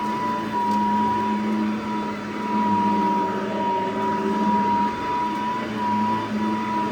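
Cordless Riccar SupraLite vacuum cleaner running, its motor giving a steady high whine over a lower hum and airflow noise, the level rising and dipping a little.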